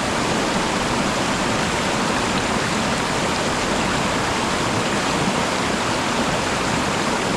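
A waterfall: the steady rush of falling water.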